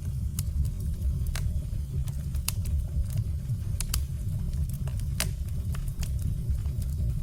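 Firewood burning: a steady low rumble of the fire with irregular sharp crackles and pops from the logs, roughly one or two a second.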